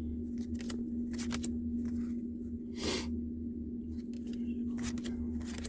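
Trading cards being handled: scattered light clicks and slides of card stock, with one longer rustle about three seconds in. A steady low hum runs underneath.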